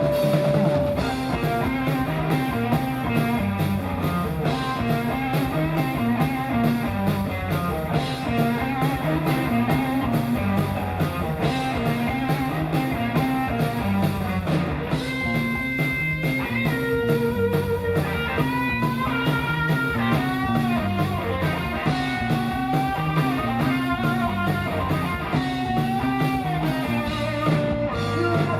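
Live rock band playing an instrumental passage: drums and a repeating low riff, with guitar lead lines holding and bending notes from about halfway through.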